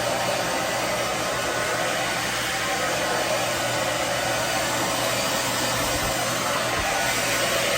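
Handheld hairdryer running steadily on its low, cool setting, blowing air onto a wet chicken's feathers.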